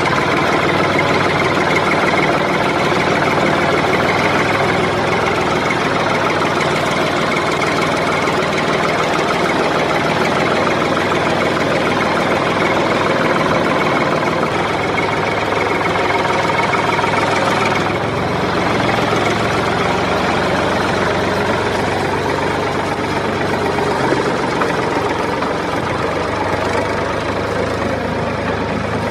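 A small engine running steadily with a fast, even pulse. Its sound shifts slightly a little past halfway through.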